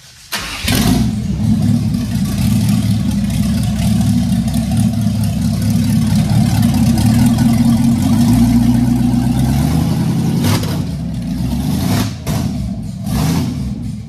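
Chevy 350 V8 in a 1967 Chevy van cranking and firing about half a second in, then running at a fast idle, with its speed dipping and picking up a couple of times near the end. No exhaust is fitted yet, and the engine runs on a brand-new carburetor that has not been adjusted, with the timing set by ear.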